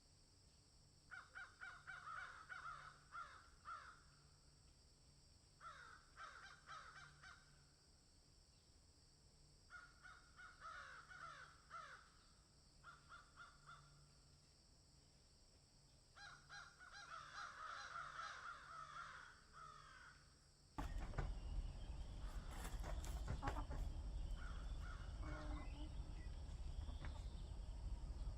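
Harsh, rapidly repeated bird calls in several separate bouts, like cawing. About two-thirds of the way through, a louder steady low rumbling noise with scattered clicks starts suddenly.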